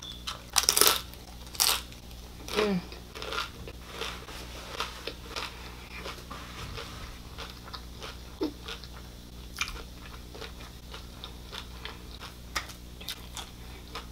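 Close-up biting and chewing of crunchy food. A few loud crunches come in the first three seconds, then softer, irregular chewing clicks follow.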